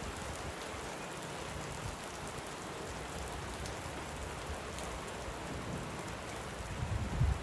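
Light rain falling, a steady even hiss of drops, with soft low thuds underneath and a brief louder low rumble near the end.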